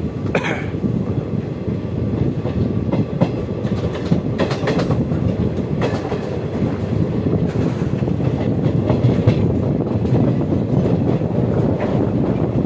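Passenger train running along the track, a steady rumble with wheels clicking over rail joints every so often.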